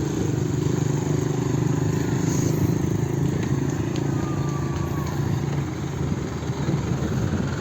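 A motor vehicle engine running steadily close by, a low even hum over the noise of street traffic.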